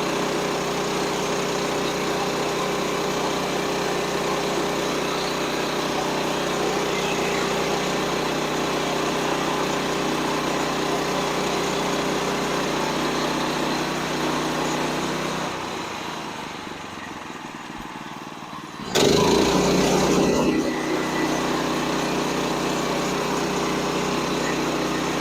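Gas engine of a portable bandsaw sawmill running steadily. About fifteen seconds in it drops to a quieter idle. Near nineteen seconds it suddenly revs up loudly for a second or two, then settles back to its steady running.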